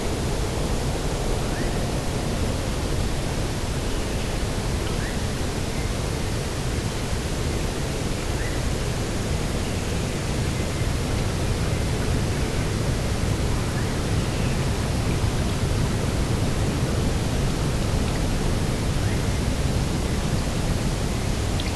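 Steady coastal wind and sea ambience: an even rushing noise, heaviest in the low end, with faint short bird calls now and then.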